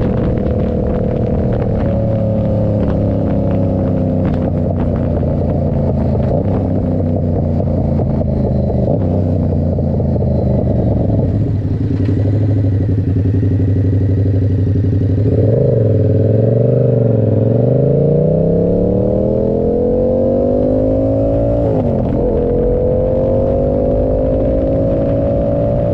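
Yamaha R7's 689 cc parallel-twin running through an SC Project exhaust while riding. The engine note eases down over the first half and dips low about two-thirds in. It then climbs again in two pulls, with a short break between them about 22 seconds in, as the bike accelerates through a gear change.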